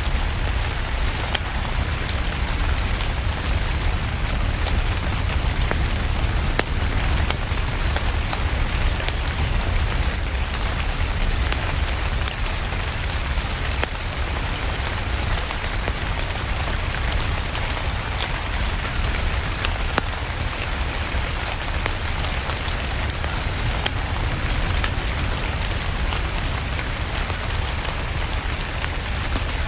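Steady rain falling, with scattered sharp crackles from a wood fire over a low, even rumble.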